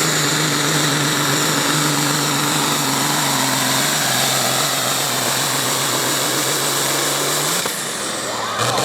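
Pulling vehicle's engine running hard and steady at high revs, easing off near the end.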